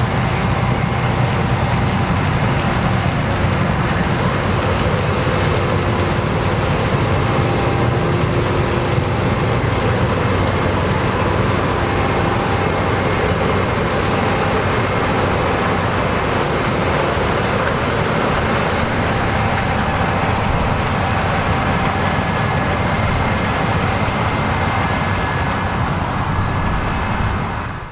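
Combine harvester running steadily while harvesting corn: a continuous, loud engine and machinery drone with a few held tones. It cuts off abruptly near the end.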